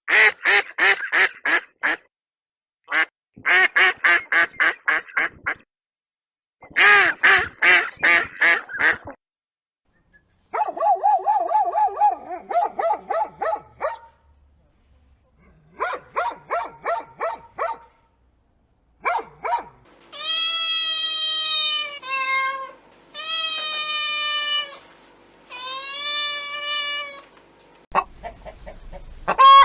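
Ducks quacking in quick runs of rapid calls, followed by other farm animal calls, including three long drawn-out pitched cries.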